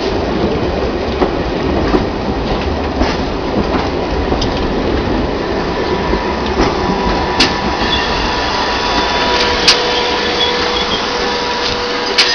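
London Underground A Stock train moving slowly along the platform: a steady rumble of wheels on rail with scattered sharp clicks and a thin steady whine. About nine seconds in, a lower squeal tone joins.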